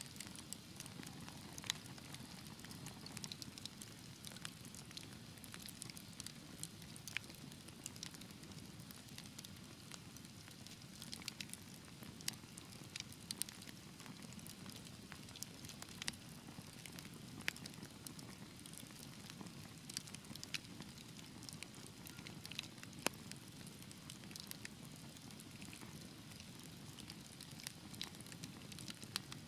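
Wood fire in a fireplace crackling, with irregular sharp snaps over a low, steady rush.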